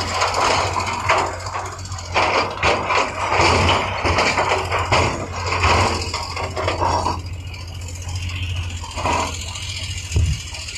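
A heavy construction machine's diesel engine running steadily, with bursts of scraping and rattling for about the first seven seconds. After that it goes quieter, and there is a single knock near the end.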